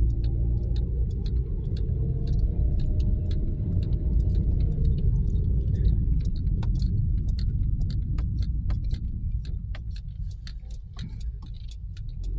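Low rumble of a car on the move, heard from inside, with many small metallic clicks and jingles scattered through it like keys jangling; the rumble eases a little near the end.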